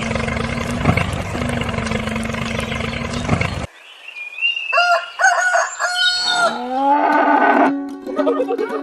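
A steady, dense whirring noise with a low hum, like a small motor, cuts off abruptly a little past halfway. Then a rooster crows once with a long, bending call.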